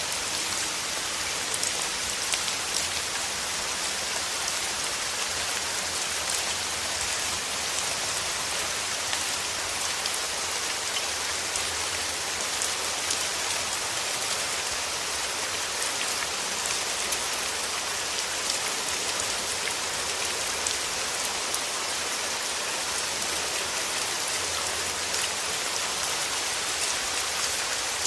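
Steady rain, a constant even hiss with close individual drops ticking sharply here and there.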